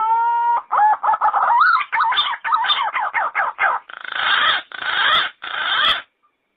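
Yellow-footed green pigeon singing: a long whistle that rises and then holds, followed by a run of quick warbling notes. It ends with three longer, rougher notes and then stops.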